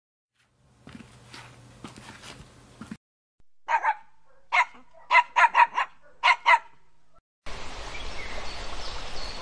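A dog barking: about eight short, sharp barks in quick succession. Near the end it gives way to a steady outdoor background hiss with faint bird chirps.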